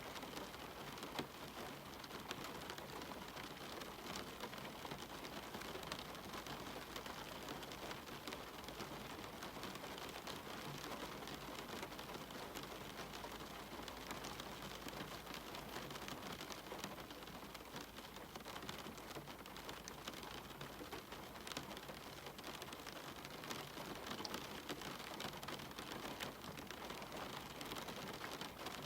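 Steady rain, with a dense patter of single drops ticking close by.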